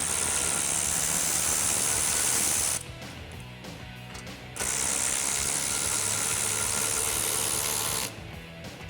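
Ratchet with a 13 mm socket running bolts out of the exhaust's mid hangers: two steady runs of about three seconds each, with a short pause between.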